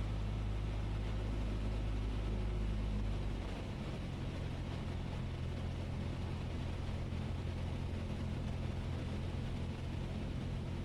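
Cessna 172S's four-cylinder Lycoming engine and propeller droning steadily in the cabin on short final approach; the engine note drops and gets a little quieter about three seconds in, then holds steady.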